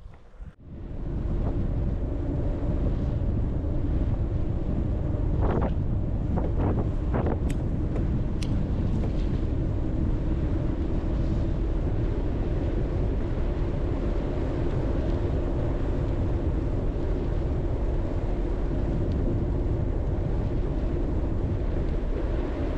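Steady wind rush over the microphone from riding a touring bicycle along a road, with road noise underneath. A few short knocks come about six to seven seconds in.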